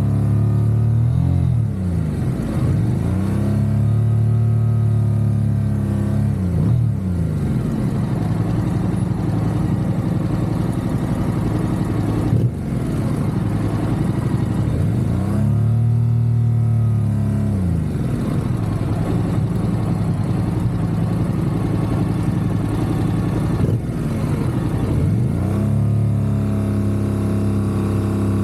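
Motorcycle engine running under way, its pitch dipping and climbing back several times as the revs change, over steady wind and road noise.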